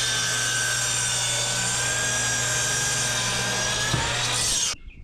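A motorized power tool running steadily at a constant speed with a low hum. It cuts off abruptly near the end, and there is a single knock just before it stops.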